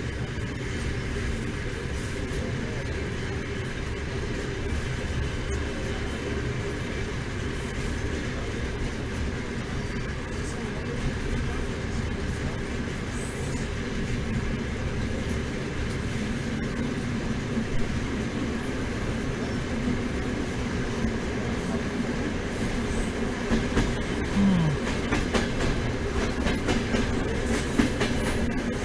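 Passenger train running, heard from inside a sleeper carriage: a steady rumble of wheels on rails, with clicking and clatter growing more frequent near the end.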